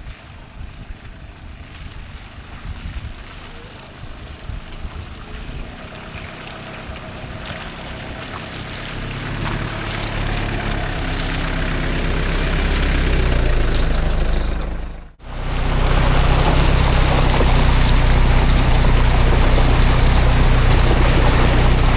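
Mitsubishi Delica camper van on the move: engine and road noise with a steady low hum, growing louder as it picks up speed. It drops out abruptly for a moment about fifteen seconds in, then continues loud and steady.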